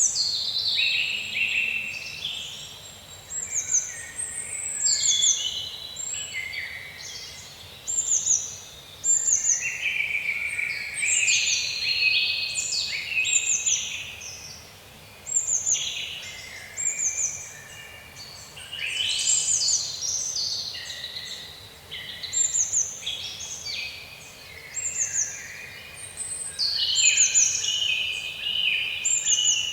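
Several songbirds singing at once: short, high, falling notes repeated over and over, with fuller song phrases a little lower in pitch, over a faint steady background hum.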